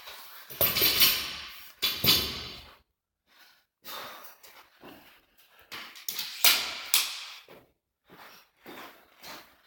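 A person breathing hard from heavy exertion, in sharp irregular gasps and exhalations, the loudest about two thirds of the way in.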